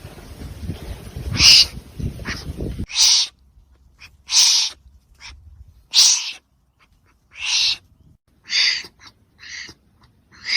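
Wombat giving short, breathy hissing huffs, about one a second, some eight in all. A low rumble of background noise stops about three seconds in.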